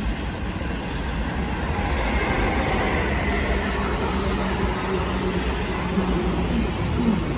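Passenger train rolling past a station platform: a steady rumble of wheels on rail, with a faint whine coming in about two seconds in.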